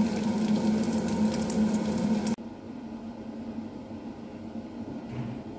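A steady low hum in a kitchen with light, crisp clicks of someone chewing a crispy fried tuna nugget. About two seconds in, the sound cuts off abruptly to a quieter, steady hiss.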